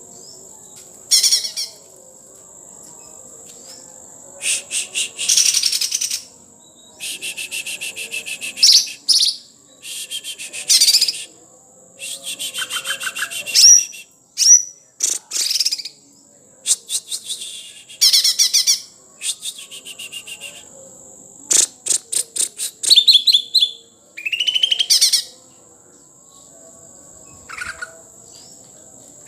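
Green leafbird (cucak ijo) singing in repeated loud bursts of fast chattering trills and whistled notes, broken by short pauses, over a steady high-pitched whine.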